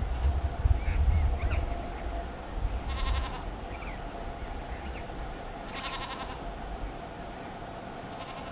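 Andean burrowing parrot giving two harsh, bleating screeches about three seconds apart, each about half a second long, with a few faint short chirps between them. A low rumble fills the first second or two.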